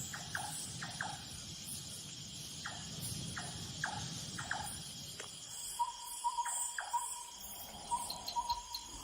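Crickets and other insects chirring steadily in an evening forest chorus. In the first half there is a string of short falling chirps, and from about six seconds in a short note repeats at the same pitch.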